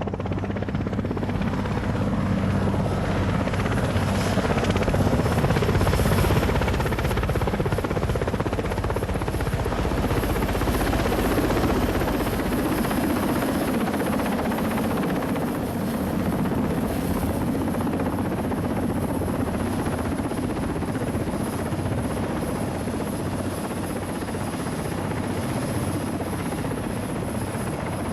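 Steady, loud mechanical drone with a low hum underneath, swelling slightly about five seconds in.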